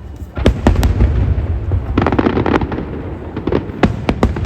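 Aerial fireworks bursting over a low, continuous rumble. The first sharp cracks come about half a second in, a dense crackling cluster follows around the middle, and a few single loud cracks come near the end.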